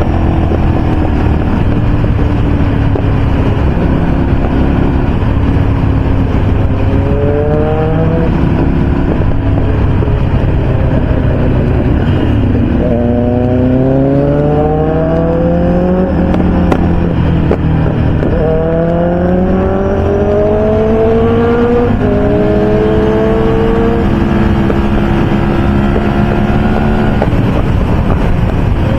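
Motorcycle engine under way on the highway, its revs climbing and dropping back several times between steady cruising stretches, over steady wind and road noise.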